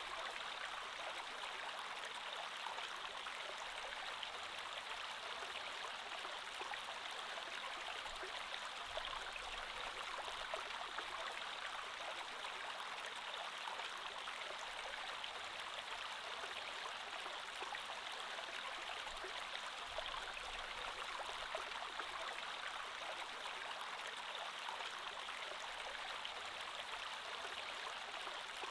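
Creek water flowing steadily: an even, unbroken rush with fine splashing and trickling running through it.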